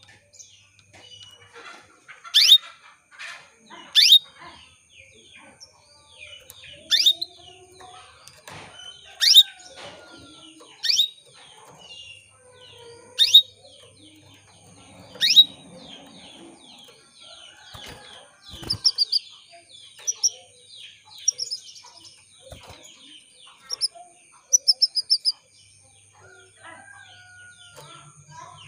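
Female canary giving sharp, downward-sweeping call notes, repeated every two seconds or so, with fainter chirping of other birds behind. Later come a few quick runs of short high notes. It is a contact call meant to stir male canaries into song.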